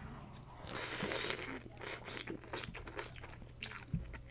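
Close-miked eating of a bowl of instant pho: a brief rush of noise about a second in, then a run of small crunches and wet clicks of chewing.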